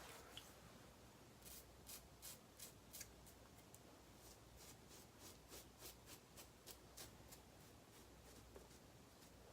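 Razor blade scraping through lathered stubble in short, crisp strokes, about three a second, starting about a second and a half in.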